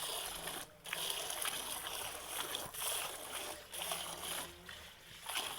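Milk squirting by hand into a pail: a rhythmic run of hissing squirts with short breaks between them.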